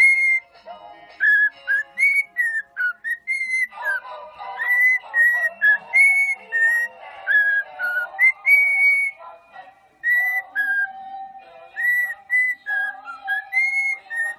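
Pet parrot whistling a tune: a quick run of short, clear whistled notes, many with an upward slur, over a softer, busier layer of lower sound.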